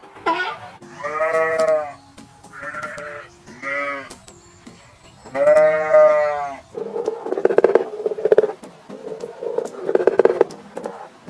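A farm animal bleating: four wavering bleats in the first seven seconds, the last the longest and loudest, followed by two rougher, rapidly pulsing calls.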